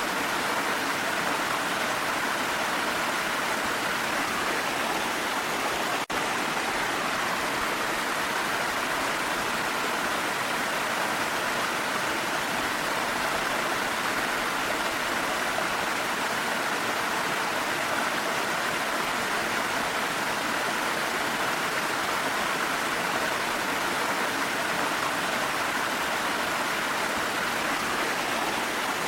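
Steady, even rush of a waterfall's falling water, mixed with rain, with no change in level apart from a momentary dip about six seconds in.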